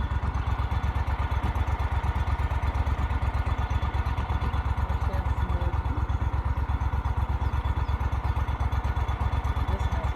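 A boat's outboard motor running steadily, a fast, even throb of engine pulses.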